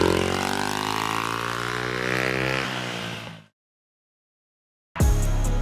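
Pit bike engine revving up, its pitch rising for about two and a half seconds before it fades out. About three and a half seconds in it cuts to silence, and music with a drum beat starts near the end.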